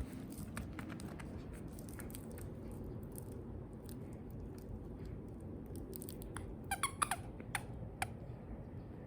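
Bichon frise dog giving a few short, high whines that fall in pitch, about three-quarters of the way through, with scattered light ticks before them.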